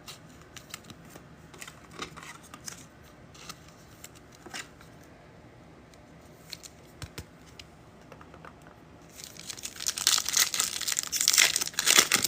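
Trading cards handled with light scattered clicks, then about nine seconds in a trading-card pack wrapper torn open and crinkled loudly.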